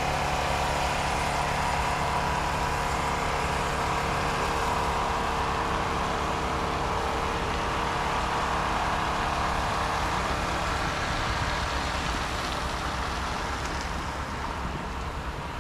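Steady motor traffic noise with the even hum of a running engine, easing slightly toward the end.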